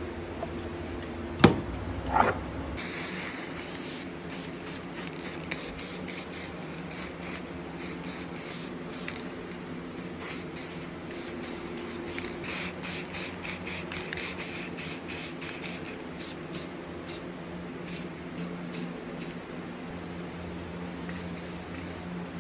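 Rapid short bursts of spray hiss, about two or three a second, in a long run of quick pulses, after two sharp clicks near the start.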